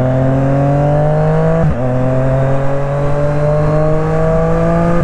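Triumph Street Triple RS's three-cylinder engine, with a Yoshimura Alpha T2 exhaust, pulling hard under acceleration, its pitch climbing steadily. It upshifts with a quick shifter about two seconds in and again at the very end, the pitch dropping sharply each time.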